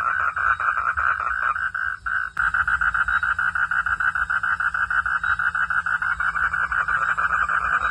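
Frog calling in a fast, even train of pulses, about ten a second, with a short break about two seconds in.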